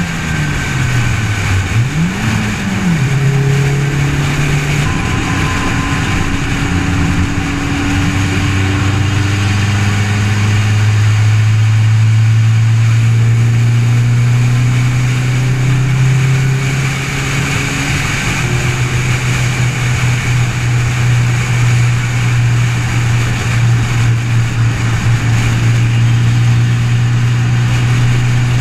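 Car engine droning at highway cruising speed, heard from a camera mounted outside on the car's fender, under heavy wind and road noise. In the first few seconds the engine note dips and rises again, then holds steady.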